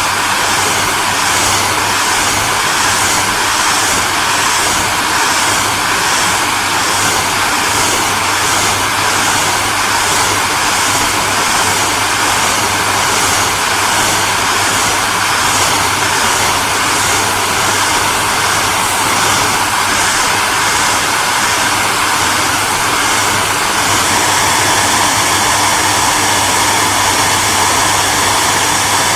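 Electric hair dryer running continuously: a steady blowing rush with a low motor hum, the upper hiss pulsing faintly and regularly. A little over three-quarters of the way through, the tone shifts slightly and the pulsing gives way to a smoother hiss.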